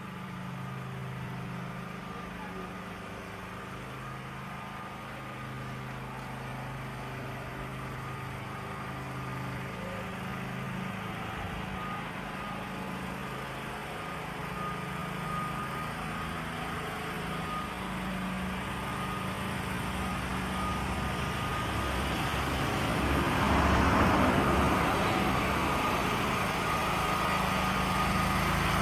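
A motor engine running steadily, growing louder through the second half and loudest about three-quarters of the way through.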